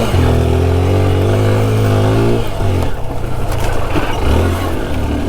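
Yamaha RX two-stroke single-cylinder motorcycle engine running under load on a rough off-road trail. It holds a steady note for about two and a half seconds, then drops off and picks up again near the end.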